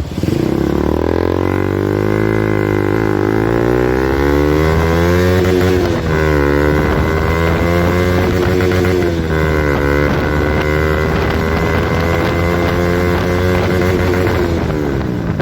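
KTM RC 200's single-cylinder engine, with an Akrapovic exhaust run without its dB killer, pulling through the gears: the pitch climbs, then drops at a shift about three, six and ten seconds in, and falls away as it slows near the end. The exhaust is very loud.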